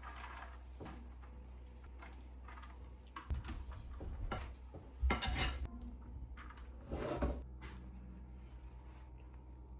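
Kitchen dishes and utensils clinking and scraping in scattered knocks, the loudest about five and seven seconds in, over a low steady hum.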